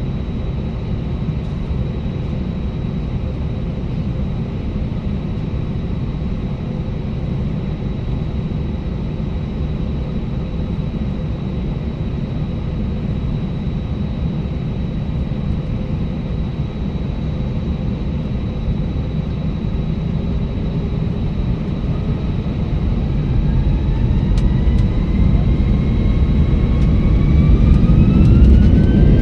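Steady low rumble of an Airbus A320's IAE V2500 engines and air systems, heard inside the cabin. In the last several seconds a whine rises in pitch and the sound grows louder as the engines spool up.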